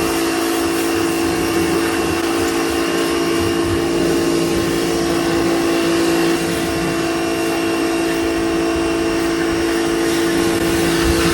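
Electric pressure washer running steadily: a motor hum with a hiss of spray over it, starting suddenly just before and stopping suddenly just after.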